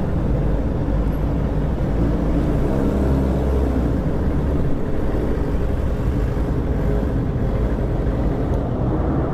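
Motorcycle engine running steadily under way, with continuous road noise.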